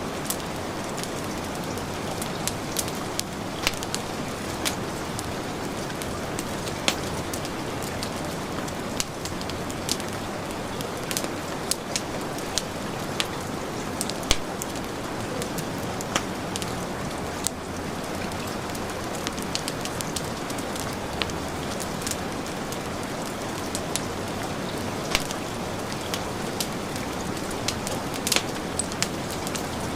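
Heavy rain falling steadily together with a crackling fireplace, sharp pops and snaps scattered irregularly throughout.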